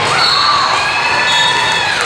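Volleyball crowd and players cheering and shouting after a rally, with several high-pitched yells held for a second or more.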